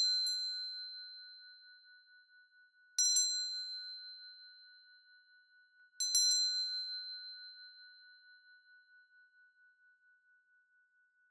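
A small high-pitched meditation bell or chime struck three times, about three seconds apart. Each strike is a quick double or triple hit that rings on with a slight pulsing and fades slowly. It is used as the signal that closes the meditation.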